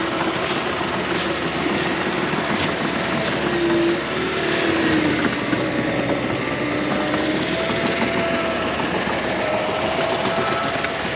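John Deere 650K crawler bulldozer working under load. The engine runs steadily with a whine that wanders in pitch, and a regular clank comes through at a slow steady beat.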